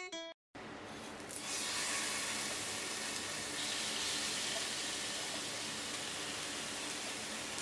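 Raw skin-on chicken pieces sizzling in a hot frying pan as they are laid in by hand, a steady hiss that grows louder about a second in.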